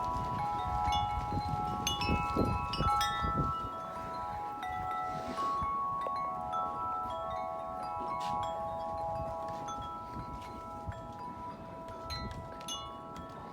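Corinthian Bells 36-inch wind chime ringing in strong wind: several overlapping bell tones struck again and again, most often in the first few seconds and again near the end. Gusts of wind rumble on the microphone during the first few seconds.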